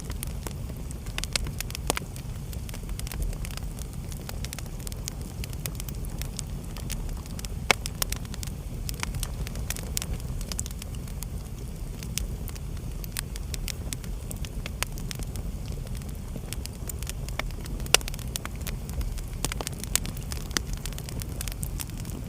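Wood fire burning in a fireplace: a steady low rumble of the flames with irregular crackles and pops, two louder sharp pops about eight seconds in and near eighteen seconds.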